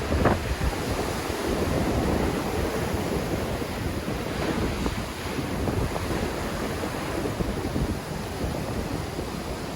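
Sea waves breaking and washing on the shore in strong wind, with gusts buffeting the microphone, a steady rough rumble throughout.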